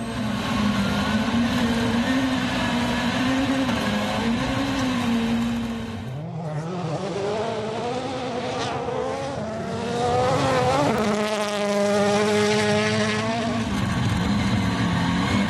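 Rally car engine running hard on a gravel stage. The note holds steady, drops briefly about six seconds in, then climbs in pitch, holds high and falls away near the end.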